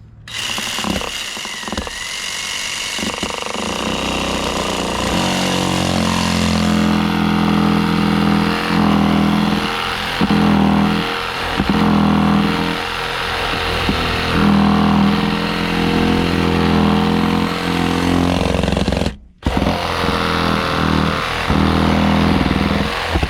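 Cordless reciprocating saw cutting into dry wood, its motor and blade running steadily with a rapid, jackhammer-like chatter; it stops for a moment about 19 seconds in, then starts again and cuts off at the end.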